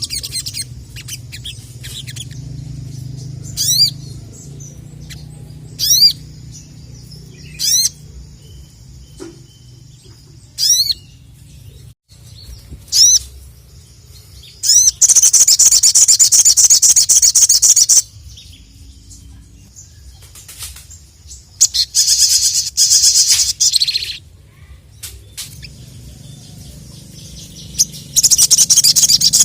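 Sogon (sogok ontong, a spiderhunter) singing: sharp high down-slurred calls about every two seconds, then three loud bursts of rapid high chattering song lasting a few seconds each.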